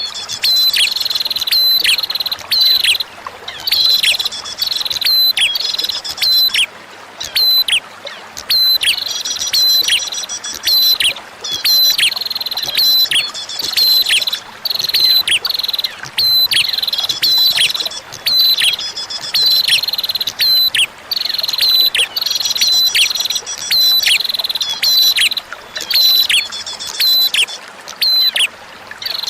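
Prinia (prenjak) calling in quick series of sharp, downward-sweeping notes, repeated with short pauses, over a steady background of trickling running water.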